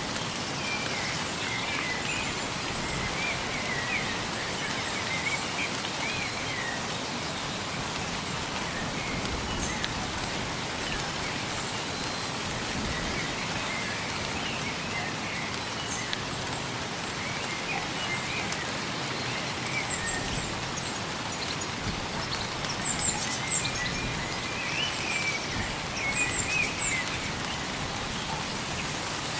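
Wild birds chirping in scattered bouts of short warbling calls over a steady hiss. Thin, very high calls come in more often near the end.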